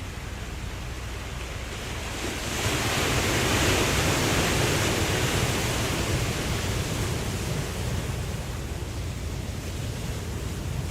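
Ocean waves: a wave comes in about two and a half seconds in, swells to a peak, then slowly fades back into the steady wash of the sea.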